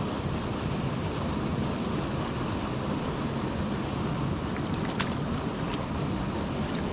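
Water rushing steadily out of a drainage pipe into a pond, with a short, high, falling chirp repeating about twice a second and a few faint clicks near the end.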